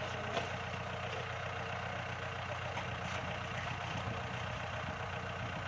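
Kubota L5018 tractor's diesel engine running steadily at idle, an even low chug with no change in speed.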